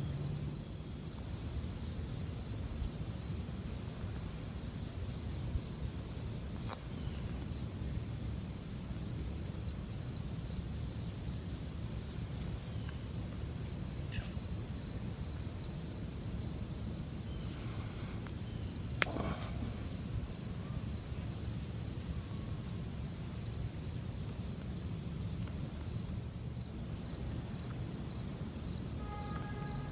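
Insects, crickets among them, trilling steadily in two high-pitched choruses, one pulsing and one smooth, over a low background rumble. A single sharp click comes about two-thirds of the way through.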